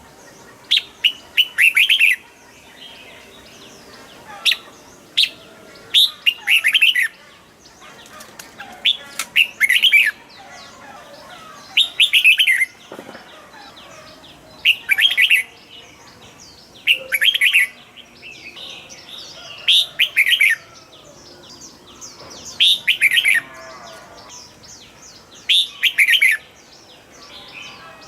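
Red-whiskered bulbul singing: short, bright phrases of rapid notes repeated every two to three seconds, with a fainter twittering between the phrases.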